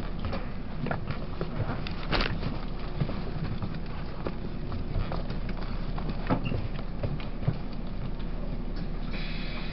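Taiwan Railways E1000-series push-pull Tze-Chiang express running at speed, heard from inside a passenger car: a steady low rumble with scattered sharp knocks and clicks from the running gear. Near the end a faint, steady high-pitched tone joins in.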